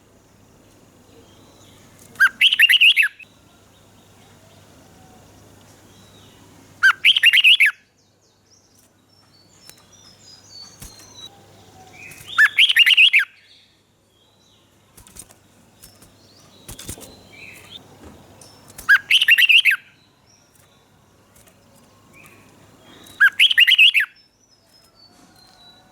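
Red-whiskered bulbul singing: five short, loud song phrases of about a second each, several seconds apart, with fainter chirps in between.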